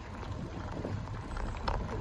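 Steady low rumble of an e-bike rolling along a path, with tyre noise and wind on the action camera's microphone, and a few faint clicks.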